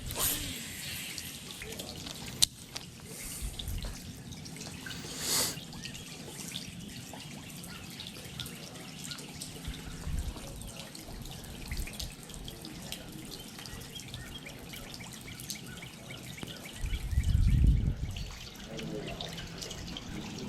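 Water dripping and trickling steadily, with scattered small ticks and a few sharper clicks. A dull low thump, the loudest sound, comes near the end.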